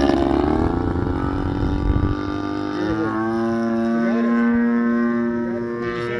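Engine of a large gas-powered RC aerobatic plane (AJ Aircraft Laser Z200) running in flight at low throttle, a steady drone whose pitch drops in the first second and then holds even.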